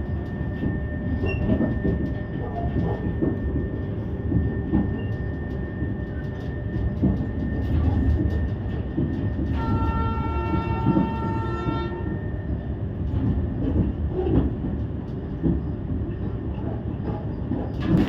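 Goods train running past, a steady heavy rumble and clatter of wheels and wagons, with the locomotive's horn sounding for about two seconds roughly halfway through.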